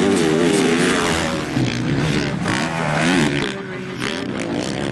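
Motocross dirt bike engines revving, the pitch climbing and falling again and again with the throttle.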